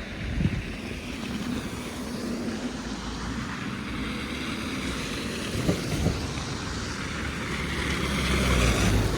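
A vehicle passing on a snowy city street: a low engine rumble and tyre hiss that build up near the end. A few soft thumps stand out early and around the middle.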